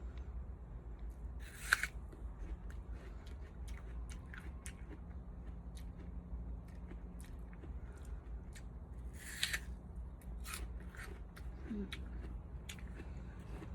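Scissors snipping: a run of small clicks with two louder cuts, about two seconds in and again near the middle, over a steady low hum.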